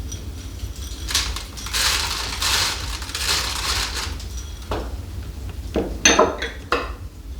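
Kitchen dishes and utensils being handled: a stretch of rustling and scraping, then several sharp clinks and scrapes of metal or crockery near the end.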